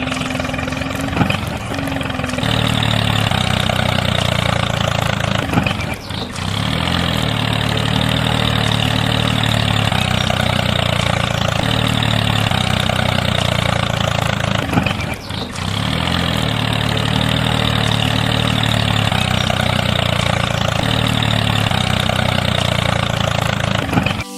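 Engine running steadily at a low, even idle-like pace, broken by brief dips about two, six and fifteen seconds in.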